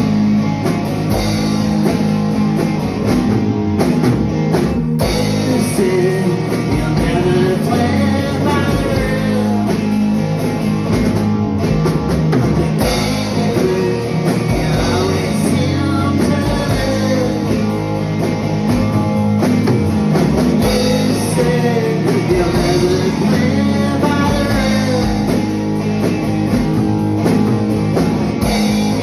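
A small rock band playing a song live: drum kit, guitar and singing.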